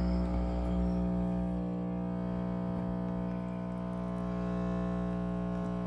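Pelonis Elite heat pump running in its defrost cycle: a steady electrical hum with many even overtones over a low rumble. It doesn't sound that happy, a sign of the malfunction the owner reports during this defrost.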